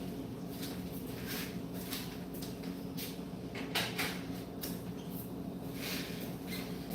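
Handling noises while preparing food: scattered clicks, rustles and light knocks, a sharper one near the middle, over a steady low hum.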